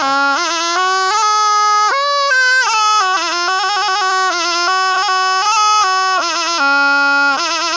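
Thai pi, a reed pipe, played solo: one unbroken, ornamented melody line that steps between notes with quick wavering turns, dipping to a held low note near the end before climbing again.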